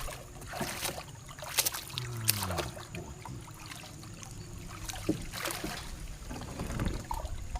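Scattered knocks and clicks over a faint wash of water sound, with a short falling voice-like sound about two seconds in.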